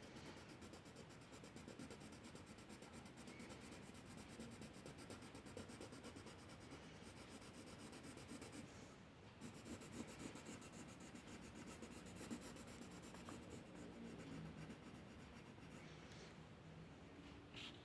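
Faint scratching of a drawing tool moving over paper in continuous irregular strokes.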